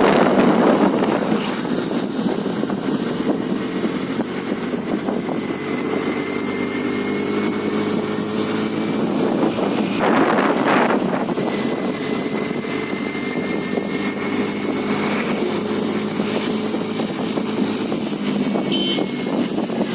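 Honda Dio scooter engine running at a steady cruising speed, with road noise and wind buffeting the microphone; a stronger gust of wind noise about halfway through.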